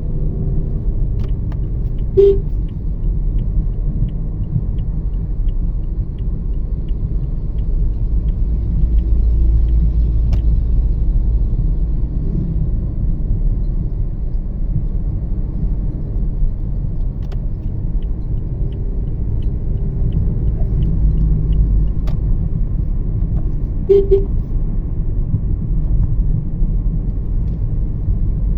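Steady low road and engine rumble inside a Toyota Yaris 1.5 cabin while driving. Two runs of light, evenly spaced ticks come and go, and a short sharp sound stands out twice, about two seconds in and again near the end.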